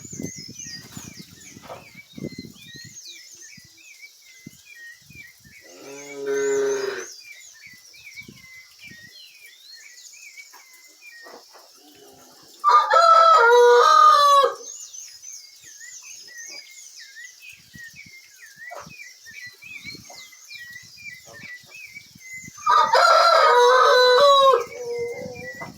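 A rooster crowing twice, each crow about two seconds long and the loudest sounds here, with a shorter, lower animal call about six seconds in. Small birds chirp continuously underneath.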